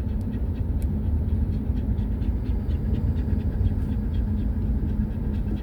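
A dog panting quickly and steadily inside a moving car, over the low rumble of the car's road noise.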